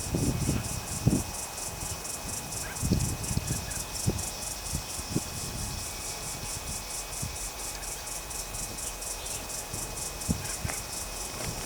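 An insect chirping in a steady high-pitched pulse, about four times a second. Low rumbles of wind on the microphone come and go, strongest about a second in.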